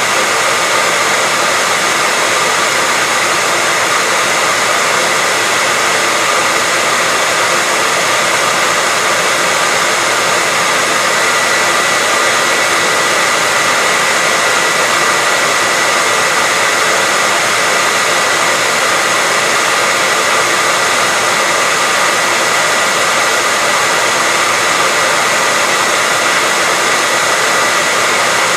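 Hair dryer running steadily, a constant loud rushing blow with a thin steady whine over it.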